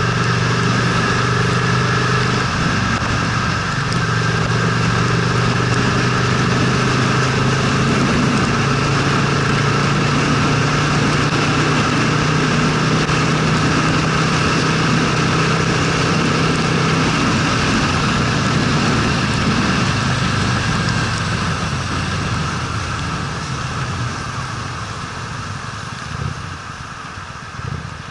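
Honda Steed motorcycle's V-twin engine running steadily while riding, under a broad rush of wind and road noise; near the end the engine note fades and the whole sound gets quieter as the bike eases off.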